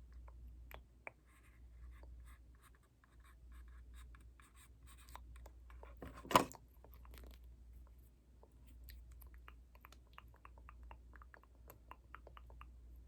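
Close-miked ASMR trigger sounds: soft crackling, scratching and small clicks in quick succession, with one sharp, much louder click about six seconds in.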